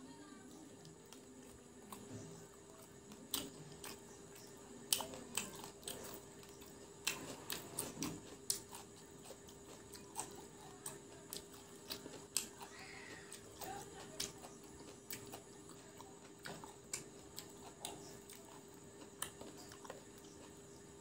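Close-up chewing and crunching of fried chicken pakora: irregular crisp clicks and crackles of the batter coating, over a steady faint hum.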